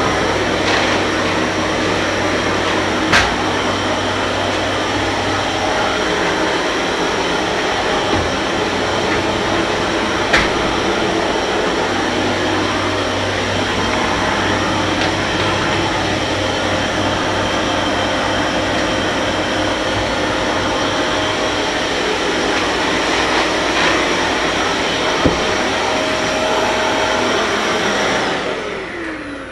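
Kärcher MV 6 P Premium wet-and-dry vacuum cleaner running steadily, with a few sharp clicks along the way. Near the end it is switched off and the motor winds down with a falling whine.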